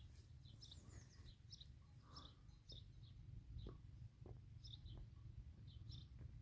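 Birds chirping faintly: short high notes repeating about every half second, over a steady low rumble.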